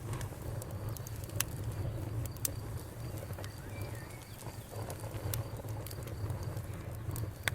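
Wood campfire burning with a steady low rush and scattered sharp crackles and pops. A bird gives a short call about four seconds in.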